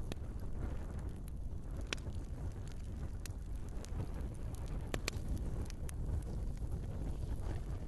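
Log fire burning in a fireplace: a steady low rumble of flames with scattered sharp crackles and pops, the loudest pair about five seconds in.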